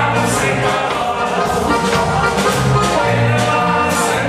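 Band dance music with a steady beat and a walking bass line.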